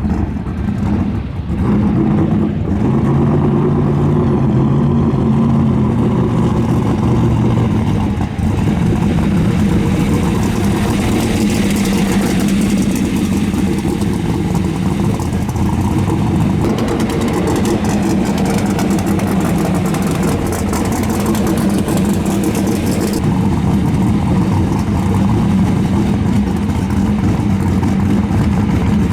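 Twin-turbo drag car engine running loud and continuously, its pitch rising and falling in the first several seconds and then holding steady.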